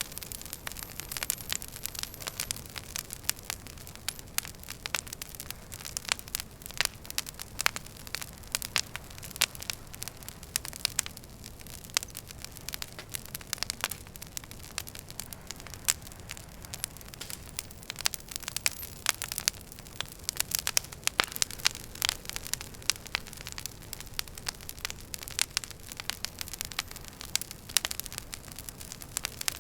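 Wood fire crackling in a fireplace: irregular sharp pops and snaps over a low steady hiss, thickest in a burst about two-thirds of the way through.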